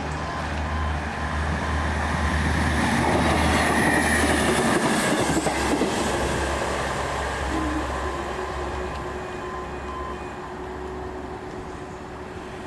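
Two-car Class 158 diesel multiple unit passing: the diesel drone and wheel-on-rail noise build to a peak about four seconds in, then fade as the train moves away.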